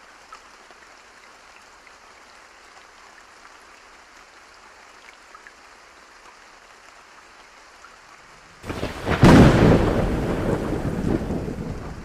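Steady rain falling, then about eight and a half seconds in a sudden loud thunderclap that rumbles on and slowly fades.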